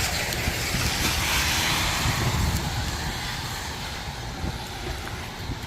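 Vehicle passing on a wet road: a hiss of tyres on wet pavement that fades away slowly over a few seconds, over a low, uneven rumble.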